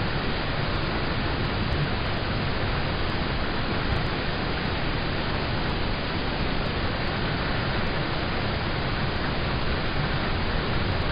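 Rain falling on a car, heard from inside the car: a steady, even hiss with no single drops or other events standing out.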